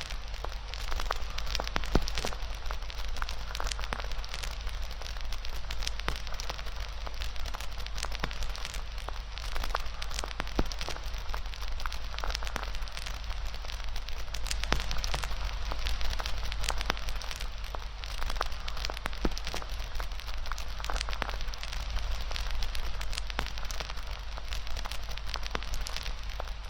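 Campfire crackling steadily, with frequent sharp pops from the burning fuel, over a steady low rumble.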